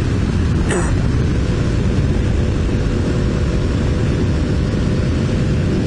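Wind rushing over a helmet-mounted microphone at road speed, with a Honda VFR750's V4 engine running steadily underneath and a faint steady engine tone.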